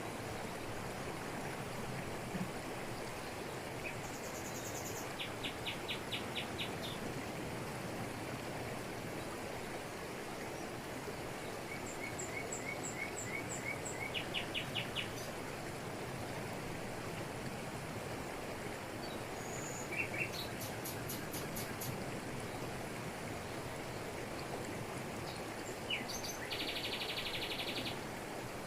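Waterfall pouring steadily over rocks, with forest birds calling over it: several short, fast trills of repeated notes spread through, and a longer buzzy trill near the end.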